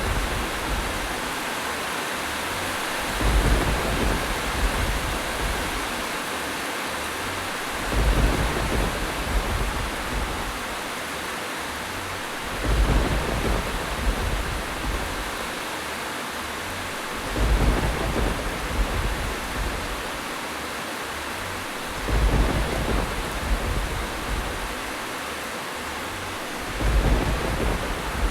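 Steady heavy rain with low thunder rumbles, six of them, swelling up at even intervals about every four and a half seconds.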